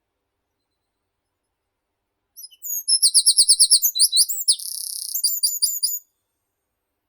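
A songbird sings one song of about three and a half seconds: a fast run of repeated high, clear notes, a short buzzy stretch, then a few closing notes.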